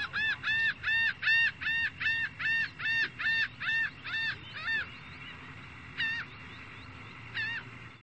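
A bird calling over a steady low hiss: a quick run of about fourteen arched, honking notes at roughly three a second, then two single notes near the end.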